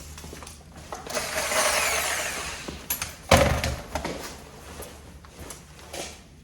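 Metal exhaust pipe and tools being handled while the pipe is set up for measuring: a scraping, rattling sound lasting about two seconds, then one sharp knock a little past the middle, followed by a few lighter clicks.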